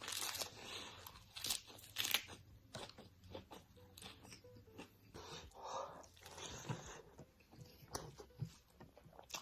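Close-miked crunchy food being bitten and chewed: repeated sharp crackling crunches, loudest in the first couple of seconds, then softer chewing with further crunchy bursts.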